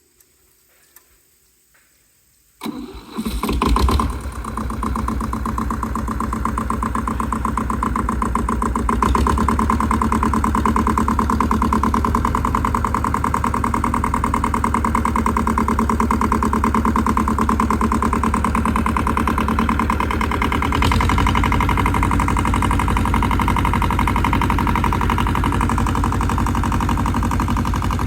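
Tractor engine cranked and starting about two and a half seconds in, then running steadily. Its engine speed picks up a few seconds later and changes again near the end.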